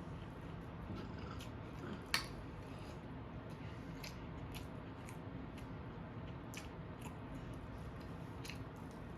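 A person chewing and biting food close to the microphone, with small wet mouth clicks scattered throughout and one sharp click about two seconds in.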